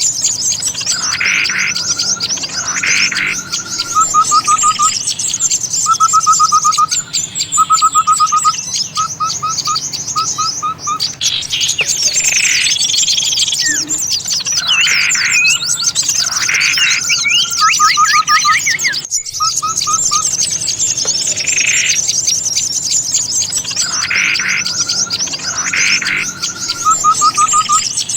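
Bird-lure recording for small birds: a mix of many small birds chattering and calling at once, with dense high twittering throughout, repeated short runs of quick lower trilled notes, and louder call phrases over the top. The layers repeat in a loop, with a brief break about 19 seconds in.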